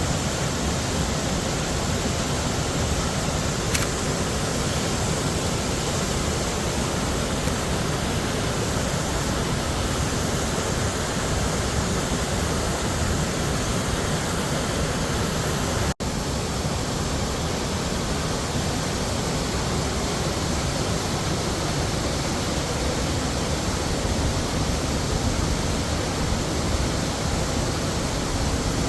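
Heavy waterfall rushing steadily, a dense even roar of falling water. It cuts out for an instant about halfway through, then carries on unchanged.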